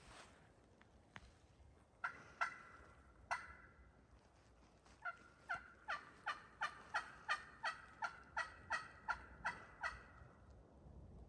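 Turkey yelping: three spaced yelps, then a run of about fourteen evenly spaced yelps, roughly three a second, that stops near the end.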